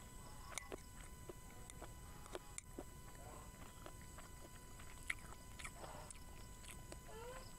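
Faint close-up chewing of braised beef, with scattered sharp clicks as a metal spoon scoops from a ceramic bowl.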